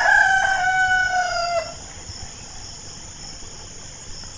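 Rooster crowing once: one long cock-a-doodle-doo that falls slightly in pitch and ends after less than two seconds, followed by a faint steady hiss.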